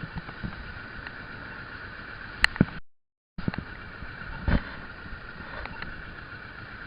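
Steady vehicle and road noise from a motorcycle-mounted camera, with a few short knocks, the loudest about two and a half seconds in. The sound drops out completely for about half a second around three seconds in.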